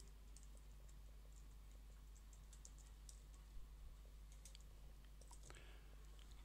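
Near silence with faint, scattered clicks of a computer keyboard and mouse being worked, over a low steady hum.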